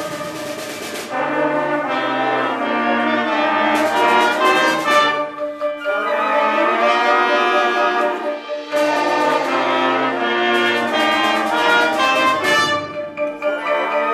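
Orchestral music with the brass section to the fore, trombones and trumpets playing held notes that change every second or so.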